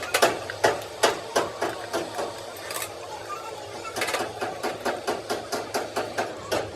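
Light hammer taps on metal in a repair workshop, about three a second, easing off in the middle and then picking up again in a steady run.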